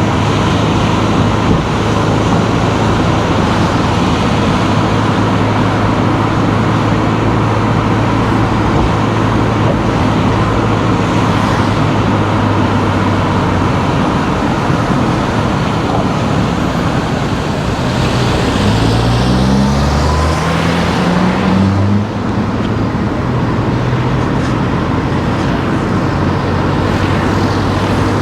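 A car driving on town streets: steady road and engine noise. About eighteen seconds in the engine note rises for a few seconds, then drops back suddenly.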